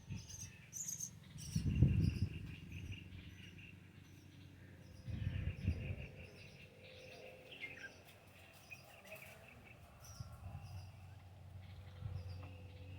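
Small birds chirping in rapid repeated notes, with a few low thuds: the loudest about two seconds in, another around five seconds.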